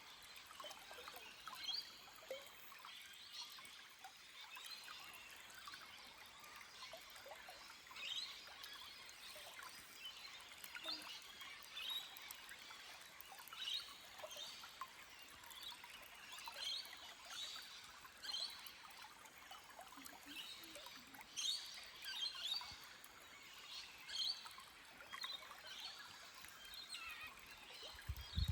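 A small forest stream trickling and burbling over rocks, with bird calls among the water sounds.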